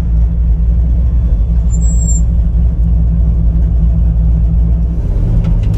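The 5.0 V8 of a 1989 Mustang GT running steadily at a constant engine speed, with a note that shifts slightly near the end.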